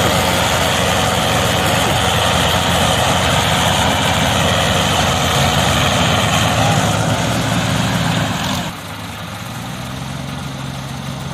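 Heavy tractor diesel engine running hard under load, then suddenly quieter and steadier about nine seconds in.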